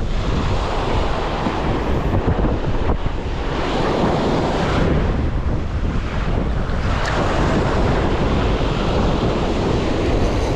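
Ocean surf breaking and washing in waves, with strong wind buffeting the microphone as a steady low rumble.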